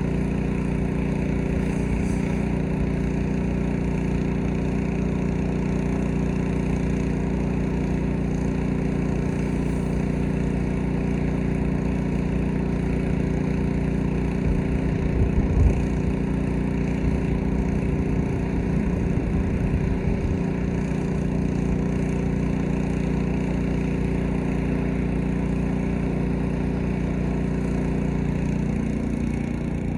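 Gas-engine pressure washer running steadily, with a brief louder surge about halfway through.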